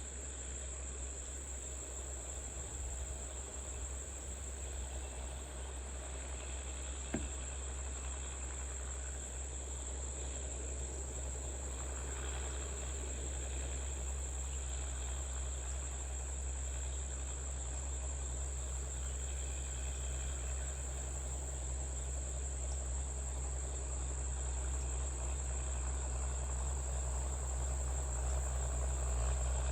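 Insects, crickets or similar, trilling steadily in one high, unbroken tone over a low steady rumble that grows a little louder toward the end. There is a single short click about seven seconds in.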